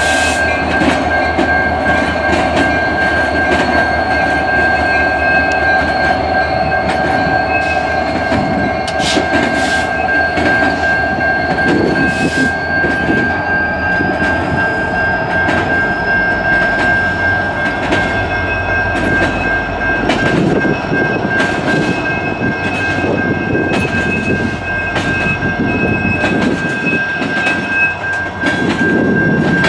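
A train rolling past at close range, its wheels clicking steadily over the rail joints, with a steady high-pitched tone held throughout.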